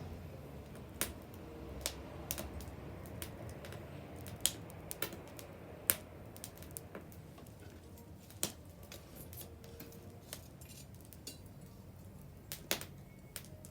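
Wood bonfire crackling: irregular sharp pops and snaps, one or two a second, over a steady low rumble of the burning fire.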